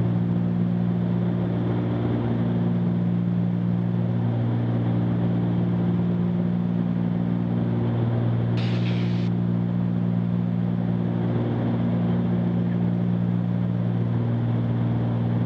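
Cessna 310Q's twin six-cylinder piston engines and propellers droning steadily, heard in the cockpit. A short, higher-pitched burst lasting under a second cuts in about nine seconds in.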